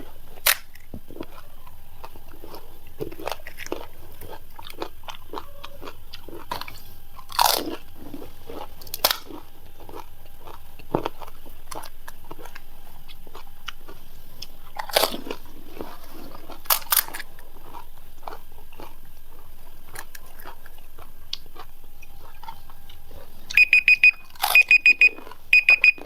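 Panipuri (fuchka) being eaten fast: the crisp hollow puris crunch and crack as they are bitten, with chewing between and a sharper crunch every few seconds. Near the end comes a quick run of short, high electronic beeps.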